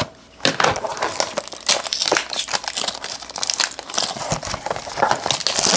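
Plastic wrapping crinkling and tearing as a blaster box of baseball card packs is unwrapped and its packs handled, a dense run of small crackles starting about half a second in.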